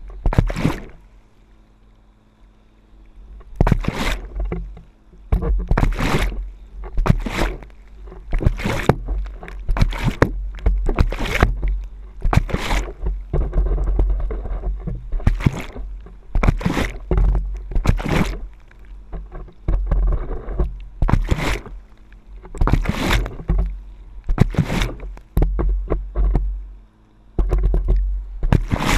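Water splashing and slapping around a stand-up paddleboard on boat wake, in sharp bursts about once a second after a quieter first few seconds, over a steady low rumble.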